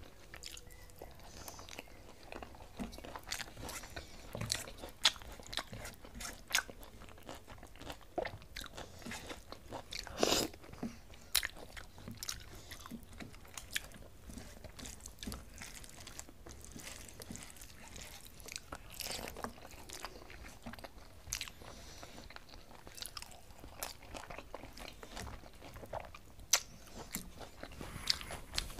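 Close chewing and mouth sounds of a person eating rice with potato and flat-bean fry by hand: wet smacks and many short, scattered clicks, with a louder burst about ten seconds in.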